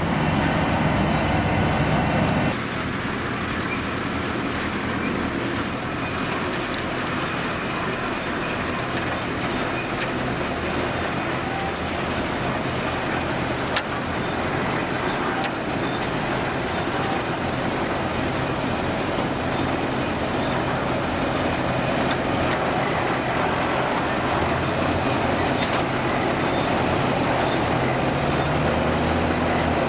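Heavy diesel truck engines running steadily, with a sudden change in the sound about two and a half seconds in and an engine note rising near the end.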